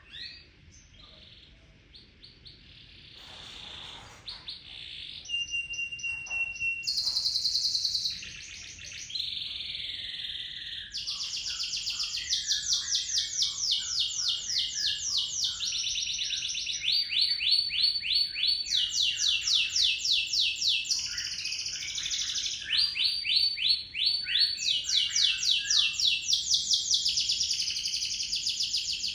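Domestic canary singing, starting softly and growing louder, then from about eleven seconds in running into long rolls: fast, evenly repeated high notes held for several seconds at a time.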